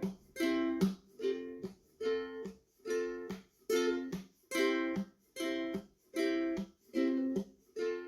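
Ukulele strummed in short, evenly spaced chords, about two a second, each chord cut off before the next.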